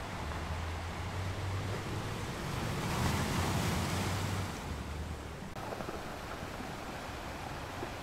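Sea waves washing onto the shore, a steady rushing surf. One wave swells to its loudest about three seconds in, then recedes.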